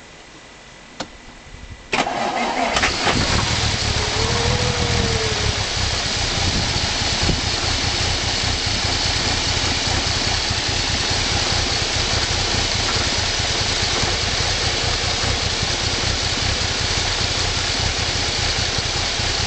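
Rolls-Royce 25/30 straight-six engine with a Bentley 4¼ cylinder head and its rocker cover off is cranked on the starter about two seconds in, catches within a second and then runs steadily.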